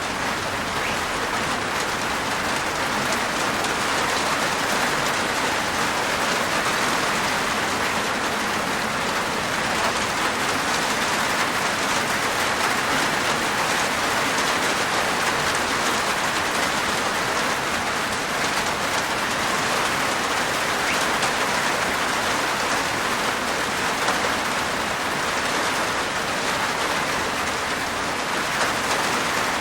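Steady rain falling on a roof, an even dense patter of raindrops.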